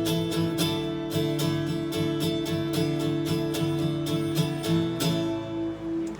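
Worship music without vocals, led by steadily strummed acoustic guitar over sustained chords and bass. The strumming stops about five seconds in, leaving a held chord ringing.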